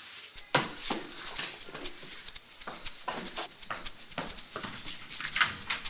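A rapid, irregular rattle of many small sharp clicks, starting about half a second in and continuing throughout.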